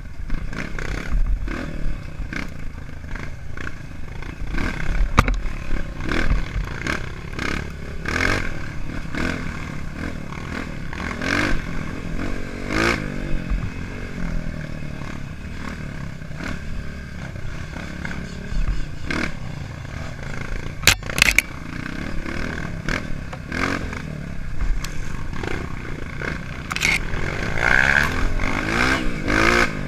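Trail dirt bike engine running and revving up and down, with the revs climbing sharply a little under halfway through and again near the end. Sharp knocks and clatter come in now and then, the loudest a pair about two-thirds of the way in.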